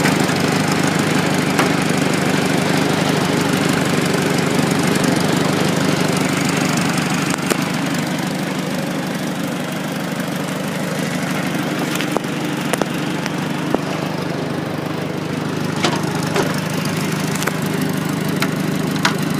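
Farmall Super A tractor's four-cylinder gasoline engine running steadily at a low, even speed; it runs smoothly.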